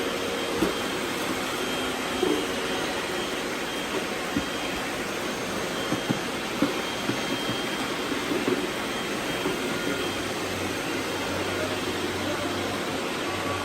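Robot vacuums running on a confetti-strewn floor: a steady whirring hiss with a few sharp little clicks and knocks scattered through it.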